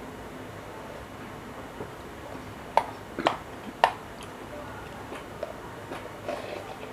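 Eating sounds from cup noodles: a few sharp clicks and taps, the three loudest close together about three to four seconds in, with softer ones after.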